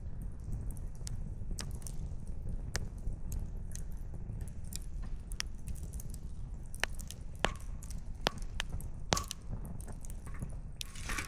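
Wood fire crackling: irregular sharp pops and snaps from burning firewood, one to several a second, over a steady low rumble. A quick cluster of crackles comes just before the end.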